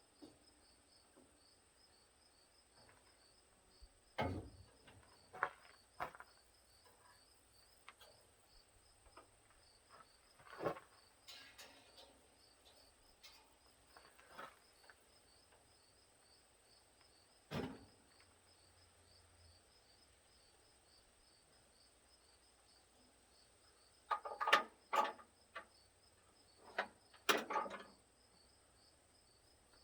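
Occasional knocks and clatters as a billet grille and its metal parts are handled and pushed into place, with a busier run of them near the end. Insects chirp steadily in the background.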